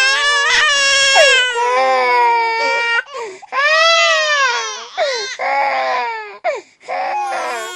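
Baby crying loudly: one long wail over the first three seconds, then several shorter cries that rise and fall in pitch, with brief pauses between them.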